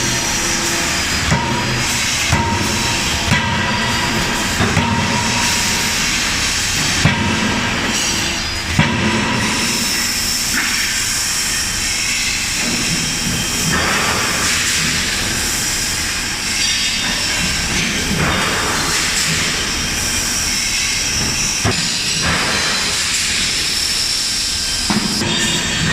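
CNC die forging hammer working: sharp blows land roughly once a second for the first several seconds, then only now and then, over a loud, steady hiss of machinery.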